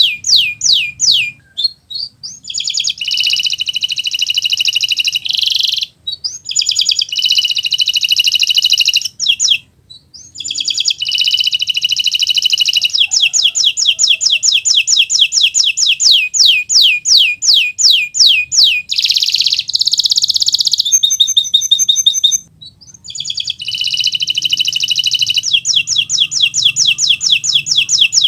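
Kenari Nusantara canary in full song: long runs of fast, repeated sweeping notes alternating with dense buzzy trills, changing phrase every few seconds with brief breaks.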